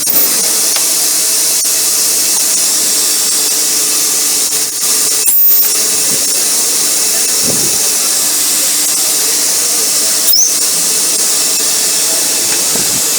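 Robotic ultrasonic welding machine running: a steady, loud high-pitched hiss with a faint whine, and a short sharp sound about every five seconds.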